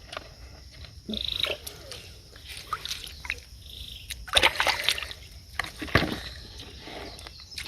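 Splashing and sloshing in shallow water, loudest in a cluster about four to five seconds in and again at six seconds, with short rattling frog calls, one about a second in and a softer one near four seconds.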